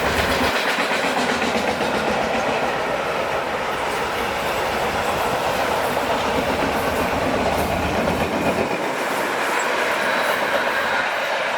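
A train passing close by on mainline track: a loud, steady rolling noise of steel wheels on the rails.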